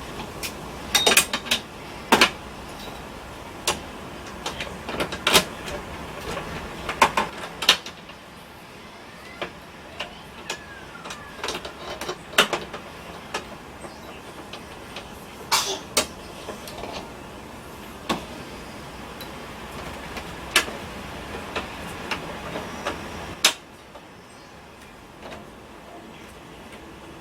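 Scattered sharp clicks and knocks, irregularly spaced, from hard parts being handled and fitted while a window air conditioner is installed.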